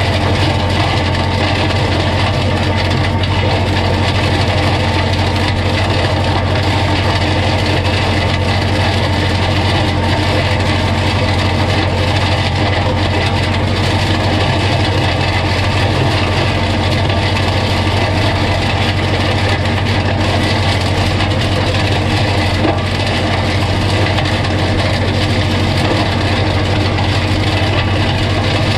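Holder A45 vineyard tractor's diesel engine running steadily under load while its mulcher shreds vine prunings, a constant low drone with a rattling chopping noise over it.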